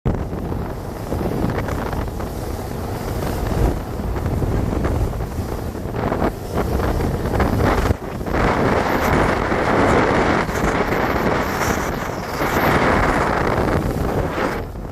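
Wind buffeting the microphone as a steady rushing noise, which grows louder and brighter from about eight seconds in until near thirteen seconds.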